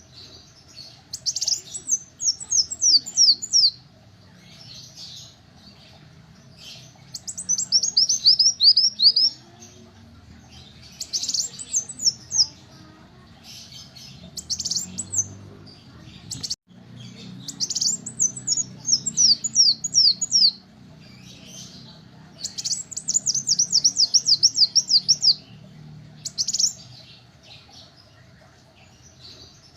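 Kolibri wulung sunbird singing: repeated bursts of rapid, high, falling chirps, each run lasting one to three seconds, with pauses of a few seconds between them.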